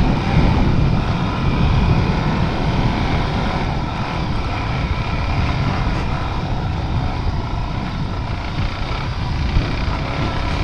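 Suzuki DRZ400's single-cylinder four-stroke engine running steadily as the dirt bike is ridden off-road.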